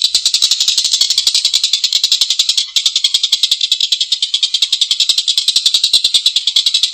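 A tengkek buto kingfisher giving its long, harsh laughing rattle: a rapid, even stream of rasping notes, about a dozen a second, with a brief catch a little under halfway through.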